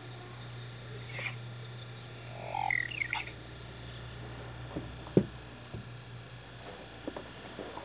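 A few short bird chirps, about a second in and again around three seconds in, over a steady low hum and a thin steady high whine, with a couple of sharp clicks about five seconds in.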